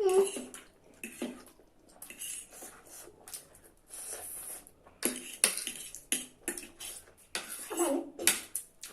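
Eating sounds: spicy instant noodles being slurped and chewed, with short clinks and scrapes of cutlery against plates.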